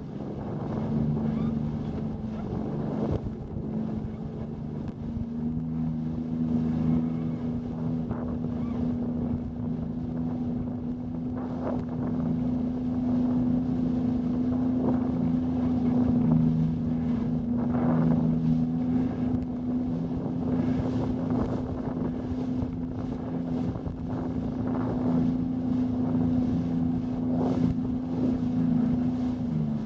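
Motorboat engine running steadily at an even pitch, with wind buffeting the microphone.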